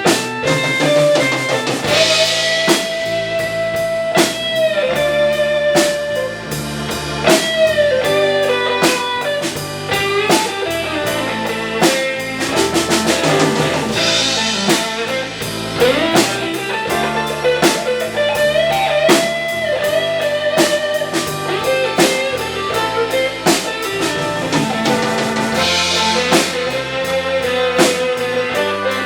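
Live rock band playing an instrumental break: a guitar lead with sustained, bent notes over a drum kit and bass.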